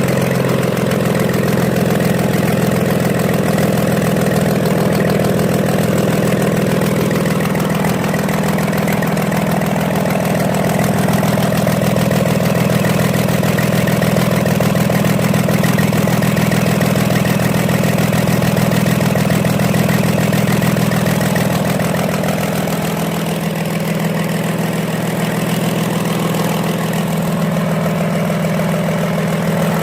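Komatsu SA6D125-series six-cylinder diesel engine running steadily out of the machine on a ground test, with a slight drop in level about two-thirds of the way through.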